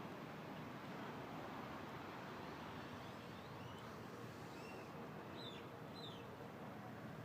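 Faint steady outdoor background noise with a few short bird chirps in the middle.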